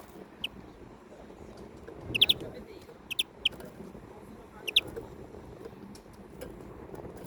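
European greenfinch giving short, sharp chirps, several times in quick clusters of two or three, over a low steady background noise.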